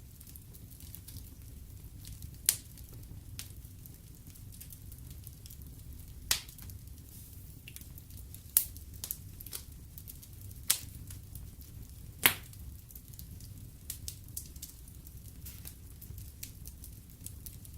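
Fireplace fire crackling: a low steady rumble of flames with scattered small crackles and five sharp, loud pops spread through it.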